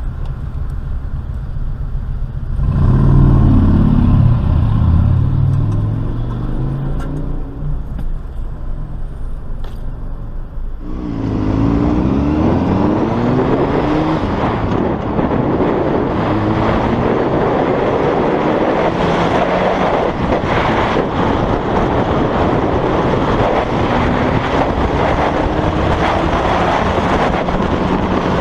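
Car engine accelerating over road noise, its pitch climbing and dropping as it shifts through gears. About eleven seconds in the sound changes abruptly to a louder engine climbing in pitch, then settles into steady driving noise.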